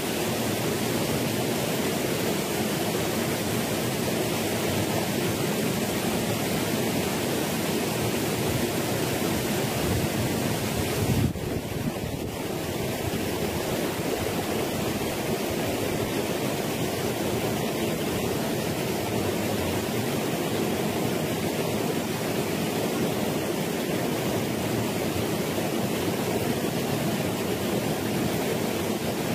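Water of a small rocky stream rushing down a little waterfall into a pool, a steady even rush with a brief change in level about eleven seconds in.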